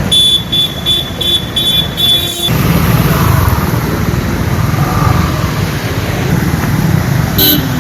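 A vehicle horn beeping rapidly about six times, then steady road-traffic rumble, with another short horn toot near the end.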